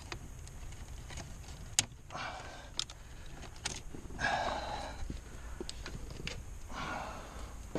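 Hands working loose wiring and plastic trim under a car dashboard: clicks and rustling, with one sharp snap about two seconds in as a zip tie is cut.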